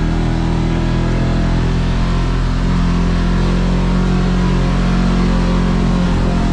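Kawasaki KRX side-by-side's parallel-twin engine running at a steady speed under way, its pitch holding nearly level.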